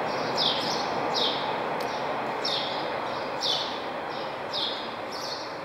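A bird giving a short, high, falling chirp about once a second, over a steady background hiss of the open ground.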